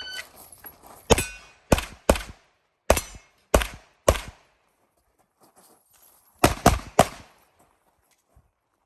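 Electronic shot-timer start beep, then a string of pistol shots: six at about half-second spacing, a pause of about two seconds, then three more in quick succession.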